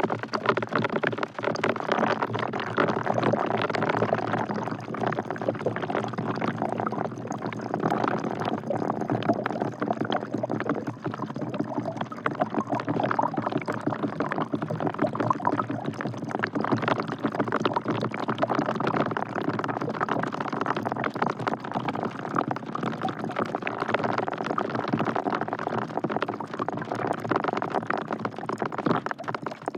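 Rain falling into a bucket: a steady, dense patter of drops splashing into the water collected in it.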